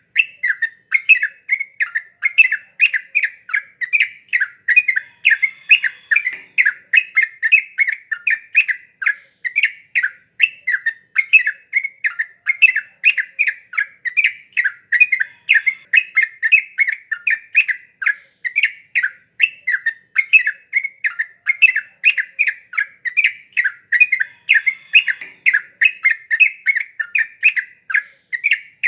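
Yellow-vented bulbul (trucuk) calling continuously in a rapid, even run of short chattering notes, about three a second.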